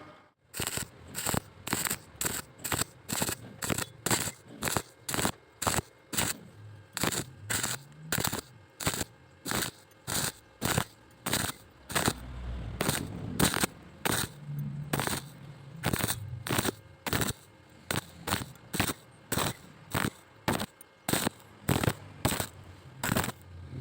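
Welding arc crackling in short, evenly spaced bursts, about two a second, as a corner joint in an iron frame is stitch-welded.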